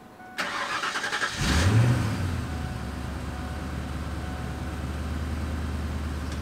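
1993 Ford Mustang GT's 5.0 L V8 cranking for about a second, catching, flaring briefly in revs and settling into a steady idle. The owner guesses that the accessory belt is off, since the battery light is on and there is no power steering.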